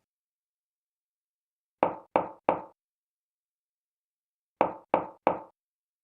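Knocking: two sets of three quick raps, the second set about three seconds after the first, with dead silence between.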